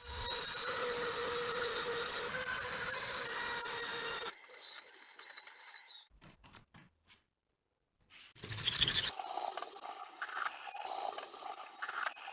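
Scraping and rubbing of tool work on rusty metal parts, in short clips that start and stop abruptly, with a gap of near silence in the middle.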